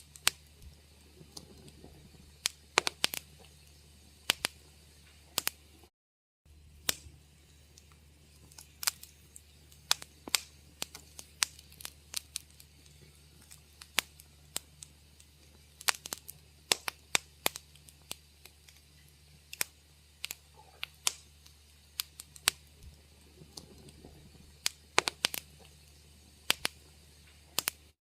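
Wood fire crackling in a fireplace, with irregular sharp pops and snaps, several a second at times, over a faint steady low hum. The sound cuts out completely for a moment about six seconds in.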